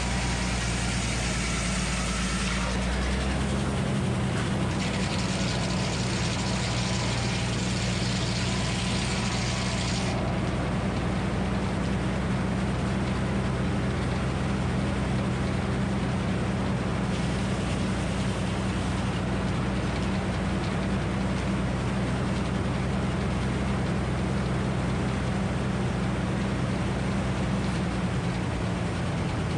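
Minneapolis Moline HEB 605 cubic inch engine running steadily under power at the sawmill, its low note shifting about three seconds in.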